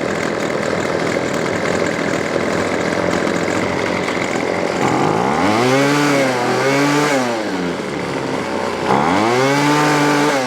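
Weedeater Featherlite SST25's 25cc two-stroke trimmer engine running steadily, then revved up and let back down twice in the second half. Its idle stays too fast to stop the trimmer head spinning even with the idle screw backed out.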